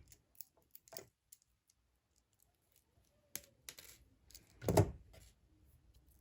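Scattered light clicks and taps of small hard items being handled on a work surface, with one louder knock and rustle nearly five seconds in.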